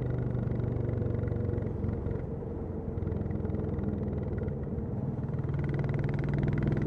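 Royal Enfield Classic 350 single-cylinder engine and exhaust running on the move. The note eases and quietens about two seconds in, then comes back louder and brighter near the end as the bike pulls again.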